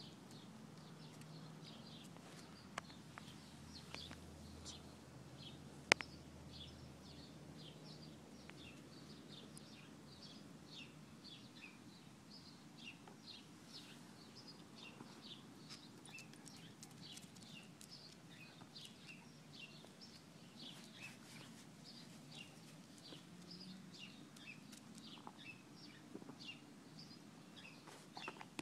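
Faint chirping of small birds, short high calls repeated again and again. One sharp click about six seconds in.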